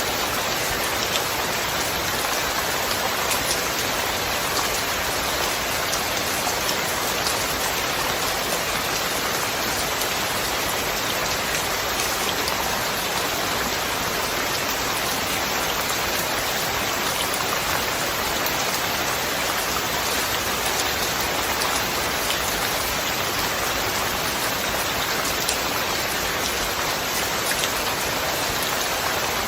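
Steady rain falling: an even hiss with scattered taps of individual drops.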